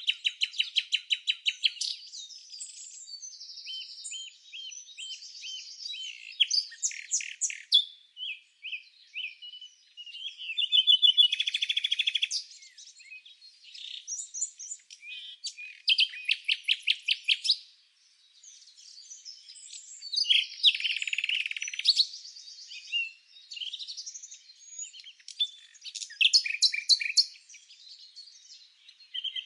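Several songbirds chirping and singing together: bouts of quick repeated chirps and trills, with brief lulls between them.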